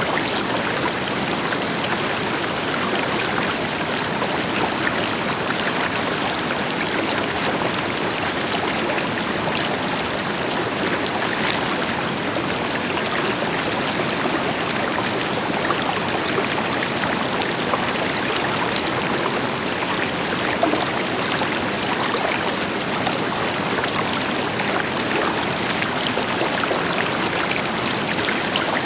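River water flowing over rocks, a steady rushing and babbling, with the deeper rush of a distant waterfall behind it.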